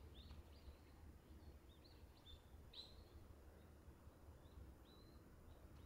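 Near silence with several faint, short, high bird chirps scattered throughout, over a low steady rumble.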